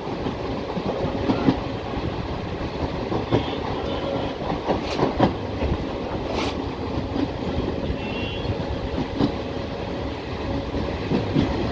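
Train running along the track, heard from on board: a steady rumble of the wheels with irregular clicks and knocks as they pass over rail joints.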